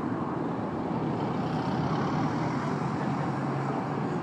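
Steady city street noise: a continuous wash of road traffic, without distinct events.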